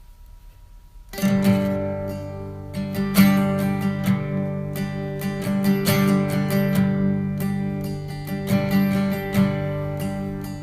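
Acoustic guitar accompaniment starting about a second in, strummed and plucked, playing the instrumental introduction before the singing.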